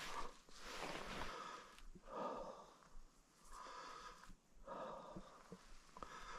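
A person breathing in and out, soft rushes of breath about every second and a half, with a few small clicks near the end.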